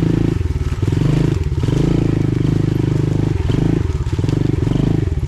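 Pit bike engine running under a rider on rough ground, the throttle rolled on and off so the engine note drops and picks up again every half second to second.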